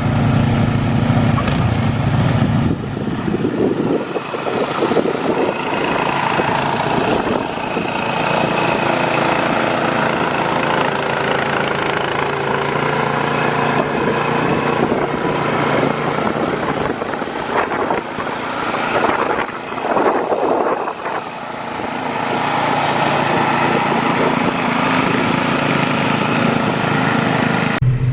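Small gasoline engine of a snow blower running steadily, with a stretch of rougher, noisier running through most of the middle before it settles again near the end.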